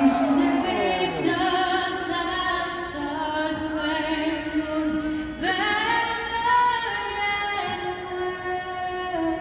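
A woman singing solo and unaccompanied over the stadium loudspeakers, holding long notes with vibrato.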